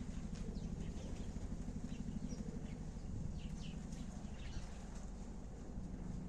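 Sparrows chirping: short, scattered high chirps, several a second at times, over a steady low rumble.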